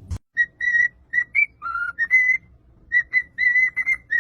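A quick series of short, high whistled notes, about a dozen, mostly on one pitch, with a couple sliding lower.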